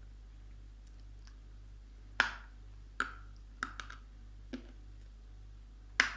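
Chewing dense edible chalk close to the microphone: a few sharp, crisp clicks and crunches, irregularly spaced, with the loudest about two seconds in and at the very end. The chalk is sticky, clinging in the mouth. A faint steady low hum runs underneath.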